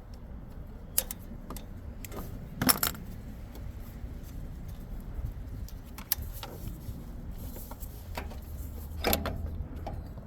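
Small metal objects clinking and jingling, with a few sharp clanks, over a steady low hum.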